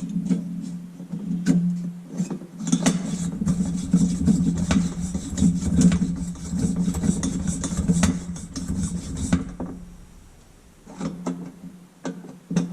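Coleman lantern's hand pump being worked to pressurise the fuel tank: a fast run of rubbing, rasping plunger strokes with sharp ticks and knocks that stops about three quarters of the way in, over a steady low hum.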